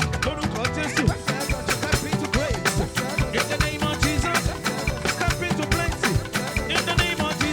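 Live band playing upbeat praise music, with a busy, driving drum and percussion rhythm over keyboard and bass lines.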